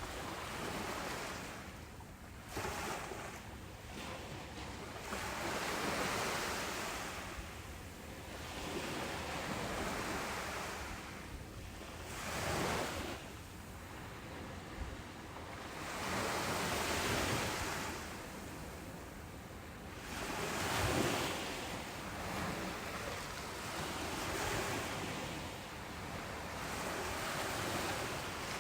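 Ocean waves breaking on a beach: a steady wash of surf that swells and eases about every three to five seconds.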